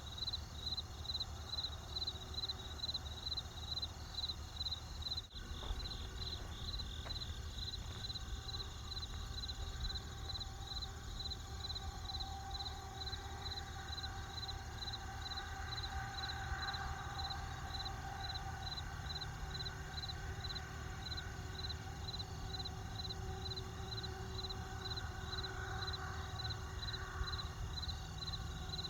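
Crickets chirping in a steady, evenly pulsed rhythm over the low, steady rumble of a campfire, with one sharp click about five seconds in.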